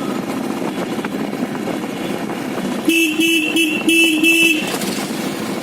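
A vehicle horn honks in a quick string of short toots for about a second and a half, starting about three seconds in, over steady engine and road noise.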